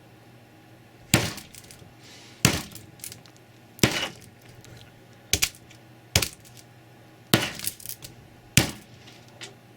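A sledgehammer striking a Samsung Galaxy S2 smartphone: seven hard blows, about one every second and a quarter, one of them a quick double hit, each followed by a brief rattle.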